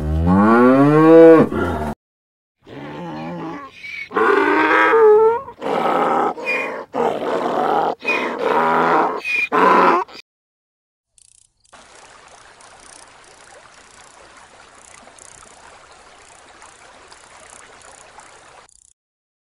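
Cow mooing: one long call rising then falling, then a run of loud calls with wavering pitch until about ten seconds in. After a short gap, a quieter steady rush of water washing over shore rocks until near the end.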